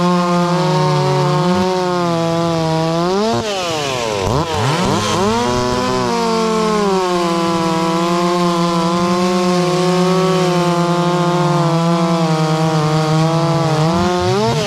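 Two-stroke chainsaw held at high revs, dipping sharply in pitch about four seconds in and climbing straight back, then steady again until a brief dip near the end.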